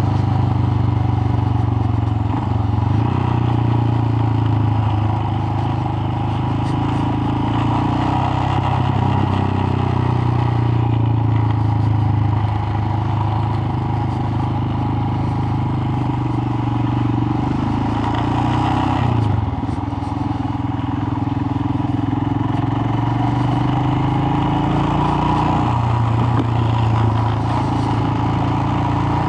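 Royal Enfield Himalayan's single-cylinder engine running as the bike is ridden along, its note shifting up and down with the throttle and dipping briefly about two-thirds of the way through.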